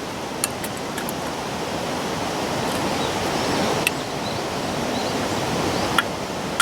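Wood fire crackling with a few sharp pops, over a steady hiss.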